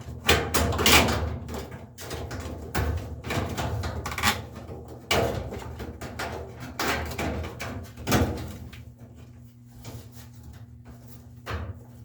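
Irregular knocks, clunks and rattling of washer parts being handled during a top-load washer tub replacement. There are several loud strikes in the first eight seconds, then quieter handling over a faint steady hum.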